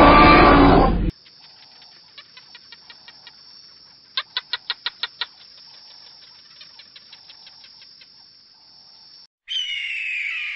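Animal calls in succession: a roar that cuts off about a second in, then quick runs of short chirps at about eight a second, with a loud run of seven near the middle, and a loud squawk with a falling pitch near the end.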